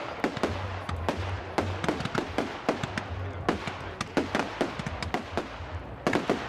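Fireworks display: a rapid, irregular run of sharp bangs and crackles, several a second.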